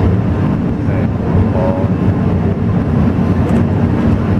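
Steady low running rumble of a moving passenger train heard from inside the carriage, most likely the Alishan Forest Railway train. A faint, brief higher squeal comes about one and a half seconds in.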